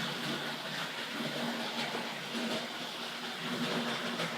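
Hornby Dublo model locomotive running steadily on three-rail track: the even whir of its electric motor and wheels on the rails, with a faint hum.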